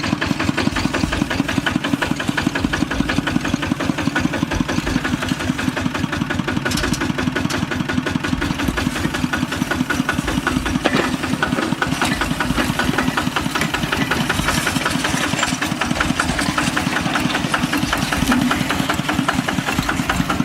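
Kubota RT walking tractor's single-cylinder diesel engine running steadily, with a rapid, even chugging beat.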